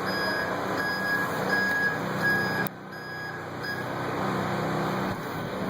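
Truck's reversing alarm beeping about one and a half times a second over its running engine, the beeps stopping a little past halfway.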